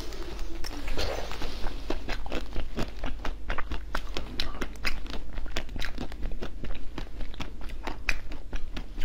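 Bites into a hard frozen treat with a purple coating and yellow filling, followed by crunchy chewing: a dense run of sharp, irregular crackles and snaps.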